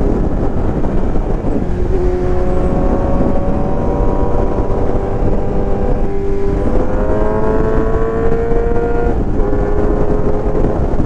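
2023 Kawasaki Z900's inline-four engine running at road speed, its pitch climbing slowly, dipping briefly about six seconds in, climbing again and then falling about nine seconds in. A heavy rush of wind noise on the microphone runs under it.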